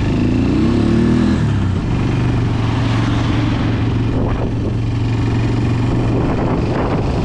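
A 250 two-wheel-drive ATV engine running under way. The revs climb over the first second and a half, drop back, then hold steady.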